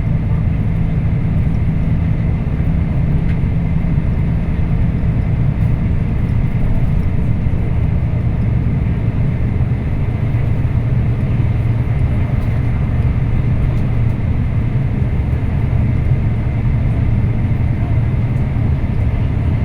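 Scania K340IB coach on the move, heard from inside: a steady low engine drone with road and tyre noise.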